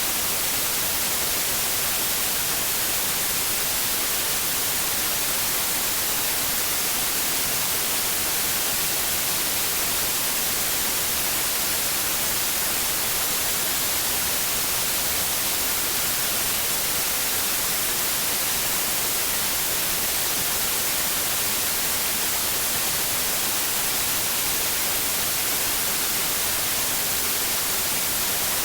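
Steady white noise from a sleep-aid track for babies: an even, unchanging hiss, strongest in the high end.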